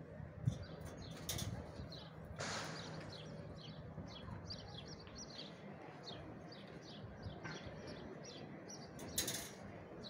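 Small birds chirping rapidly and continuously. A few short rushes of noise break in, the loudest about two and a half seconds in and near the end.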